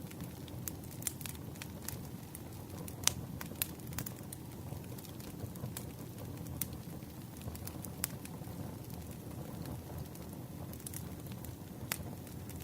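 Wood campfire crackling: a steady low rumble with irregular sharp pops and snaps, the loudest about three seconds in.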